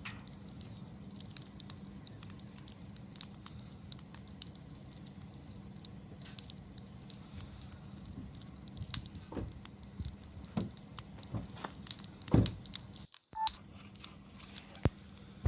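Wood bonfire crackling, with scattered sharp pops and snaps that grow louder and more frequent in the second half. The sound cuts out briefly a little past the middle.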